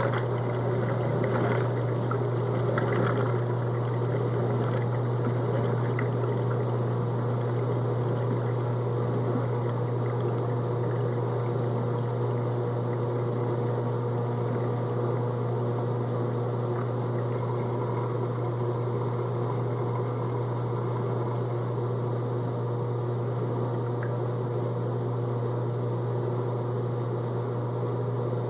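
Whirlpool dishwasher's drain pump running with a steady hum, pumping out the detergent main-wash water. Water sloshes through it more busily in the first couple of seconds.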